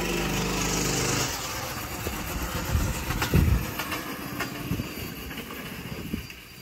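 Predator 212 single-cylinder go-kart engine running steadily, then its note breaks off about a second in. Rough scraping noise and a couple of heavy thumps follow about three seconds in as the tractor-kart crashes.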